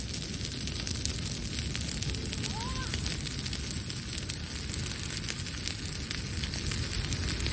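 Wood bonfire burning, crackling with scattered small ticks and pops over a steady low rush. A short rising whistle is heard about two and a half seconds in.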